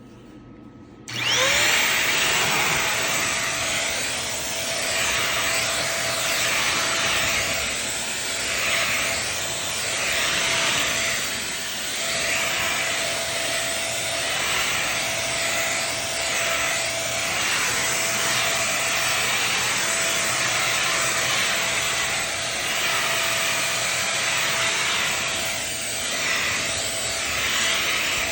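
Black+Decker 3-in-1 stick vacuum switched on about a second in, its motor spinning up into a steady whine. A rushing suction noise swells and eases every couple of seconds as it is pushed back and forth over carpet.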